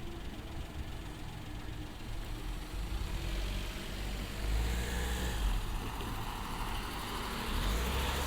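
Road traffic: car engines idling and pulling away, a low rumble that swells about four and a half seconds in and again near the end.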